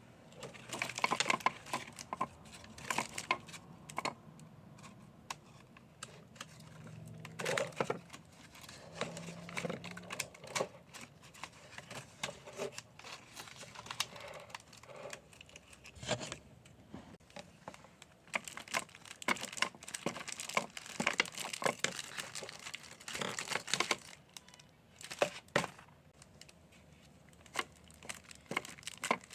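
Paper crinkling and rustling in quick, irregular bursts of crackles as folded paper dragon puppets are worked to chomp.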